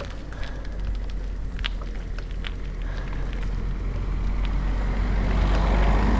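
A car passing on the road, its noise slowly growing louder toward the end, over a steady deep wind rumble on the bike-mounted camera's microphone. A few light clicks come through early on.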